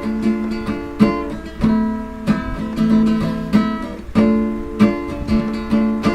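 Acoustic guitar strummed in a steady rhythm, chords ringing between strokes, with no singing: an instrumental break in a song.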